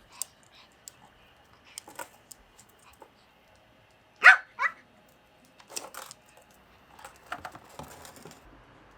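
A dog gives two quick barks about four seconds in, with scattered light clicks and knocks of handling before and after.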